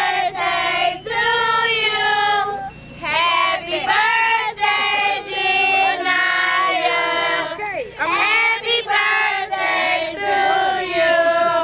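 A group of children and women singing a song together in held, sung phrases.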